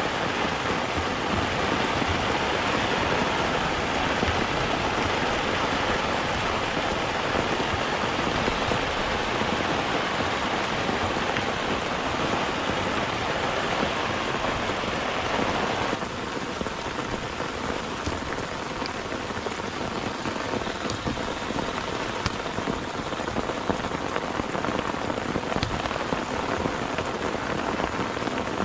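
Heavy rain falling steadily. About halfway through the sound changes abruptly to slightly quieter rain with separate drops ticking.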